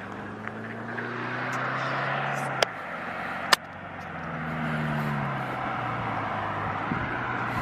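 Subaru Impreza 2.5 RS's flat-four engine running through a muffler-deleted exhaust. The note falls away, then rises and eases off again, with two sharp cracks about a second apart near the middle.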